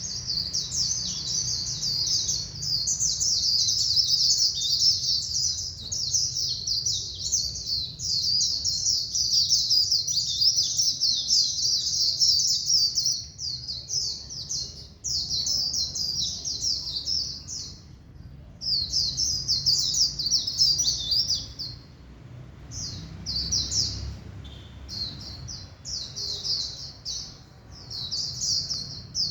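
White-eye (vành khuyên) singing a long, rapid, high-pitched twittering song in extended runs, broken by short pauses after about 18 and 22 seconds.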